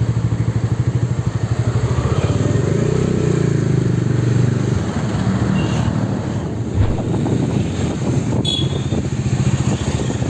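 Motorcycle engine running, with an even, rapid pulsing exhaust note.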